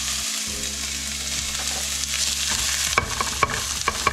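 Diced onions sizzling in hot oil in a frying pan on a gas stove, a steady hiss. About three seconds in, a run of sharp clicks against the pan begins.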